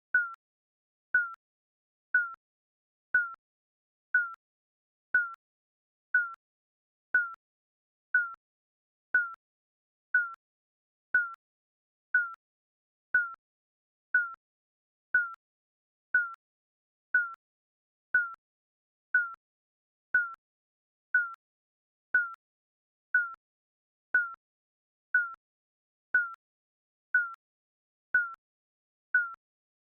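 Digital countdown timer beeping: a short, high electronic beep once every second, each at the same pitch.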